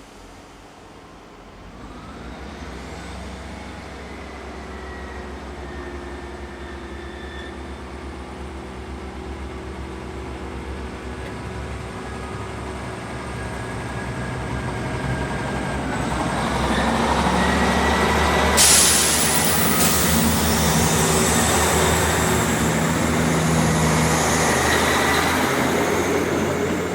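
Pair of Class 37 diesel locomotives with English Electric V12 engines approaching and passing. The engine sound, with thin whistling tones over it, grows steadily louder from about two seconds in. It becomes loudest with a sudden burst of noise about two-thirds of the way through as the locomotives go by, then eases off near the end.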